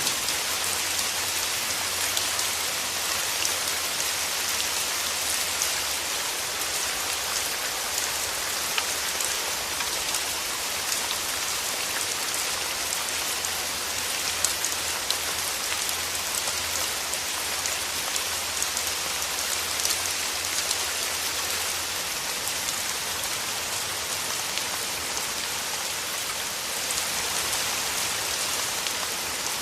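Steady rain falling through forest trees: a constant hiss with many scattered, individual drops ticking in it.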